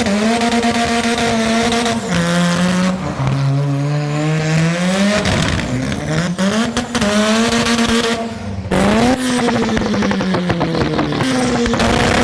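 Modified first-generation Mazda RX-7 engine running hard, its note climbing and then dropping abruptly several times as the throttle is worked.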